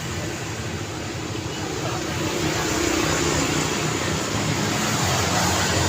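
Road traffic with a motor vehicle engine running close by, growing louder about two seconds in and then holding steady.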